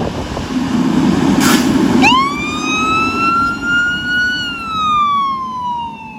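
A low rumble with a brief hiss, then about two seconds in a fire truck's siren starts a slow wail: it jumps up, climbs slowly in pitch, then falls away steadily.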